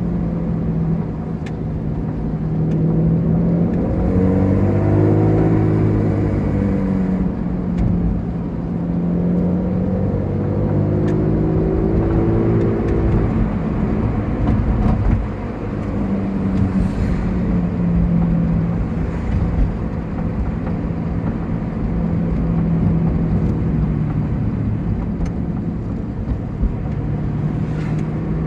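Ferrari Enzo's V12 engine heard from inside the car while driving: running at a steady cruise, pulling up in pitch twice under acceleration, about four and ten seconds in, then easing back.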